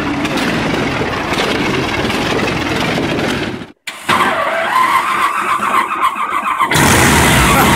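A big-engined vintage car running as it drives past, then, after a brief gap, the Rolls-Royce Handley Special's 27-litre water-cooled V12, a Rolls-Royce Meteor, which is quieter at first and suddenly gets much louder about seven seconds in.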